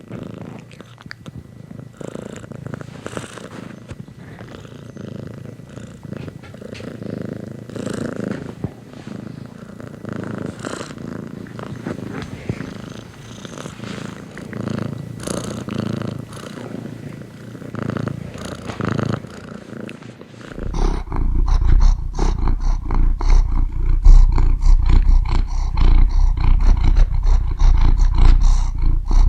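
Domestic cat purring, a steady rhythmic rumble. About two-thirds of the way in it changes abruptly to a much louder, deeper, close-up purring rumble.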